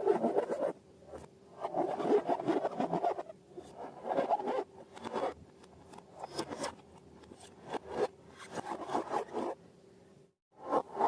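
Slime being squished and mixed by hand, with sticky crackling clicks in bursts and short pauses between them. The sound drops out briefly near the end, then the crackling resumes.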